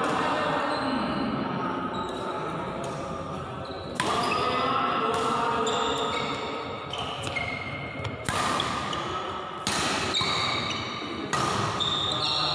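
Badminton rally: sharp racket strikes on the shuttlecock, several seconds apart, each echoing in a large sports hall.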